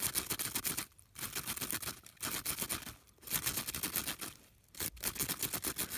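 Arctic fox at close range making quick runs of crisp crunching clicks, in bursts about a second long with short pauses between.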